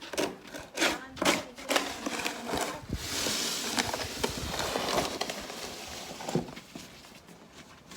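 Snow shovels scraping and chopping at heaped snow in quick strokes, then a longer steady rushing hiss from about three seconds in that fades near the end.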